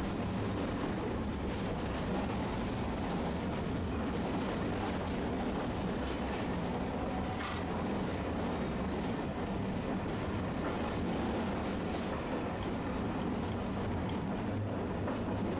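Tosaden streetcar running along its line, heard from inside the car as a steady rumble of motors and wheels on rail, with a brief sharp clatter about halfway through.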